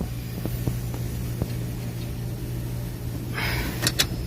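Chevrolet Tahoe V8 engine running steadily with a low hum, with a few sharp clicks and a short rattling burst near the end; the engine's water pump shaft has failed, leaving it overheating.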